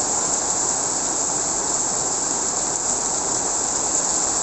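Heavy rain falling in a strong wind, an even, steady rushing noise.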